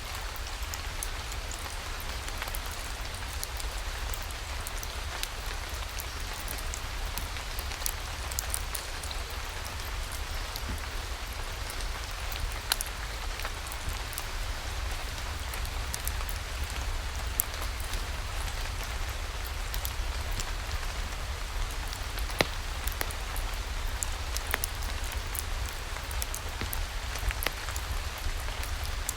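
Steady rain falling, a continuous hiss with a low rumble underneath and many scattered sharp ticks of drops.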